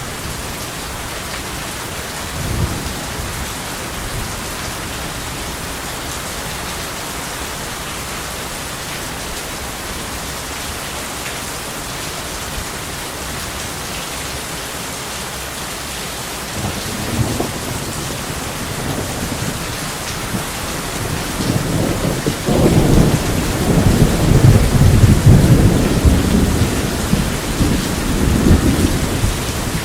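Steady heavy rain with rolling thunder: a brief low rumble a couple of seconds in, then a long peal that builds from about halfway and rumbles loudest near the end.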